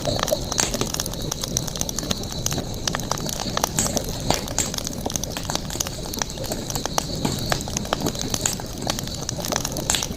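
Campfire crackling: irregular sharp pops and snaps over a low, steady rumble of burning wood, with a faint steady high-pitched tone behind.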